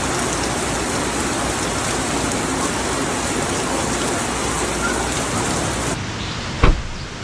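Steady rain falling, an even hiss. About six seconds in it gives way to a duller, quieter steady rush, broken by a single brief thump near the end.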